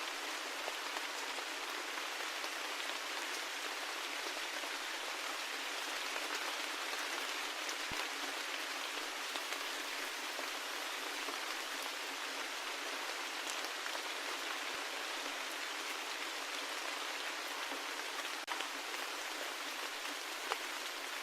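Steady rain falling, an even hiss dotted with the ticks of individual drops, with no deep rumble underneath.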